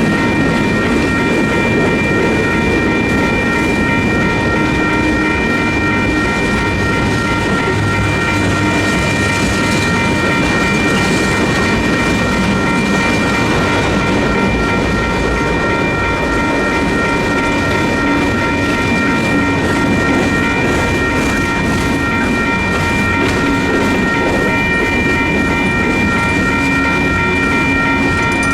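Freight cars of a slow-moving Union Pacific manifest train rolling over a grade crossing, a steady rumble with wheel clacking on the rails, while the crossing's electronic warning bells ring steadily as a high, unbroken tone.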